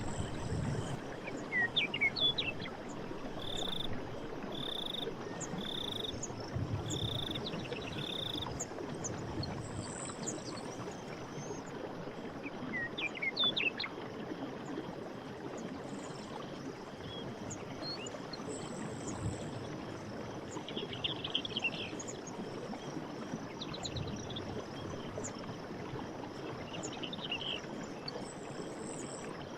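Night forest ambience: a steady rushing background with frogs and insects calling over it. A run of five short, evenly spaced calls comes a few seconds in, with quick sweeping chirps and short trills scattered through the rest.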